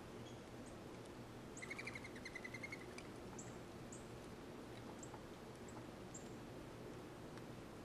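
Wild songbirds calling: a short rapid trill of about ten notes from about a second and a half in, lasting just over a second, and thin high chips scattered through, over a steady low background hum.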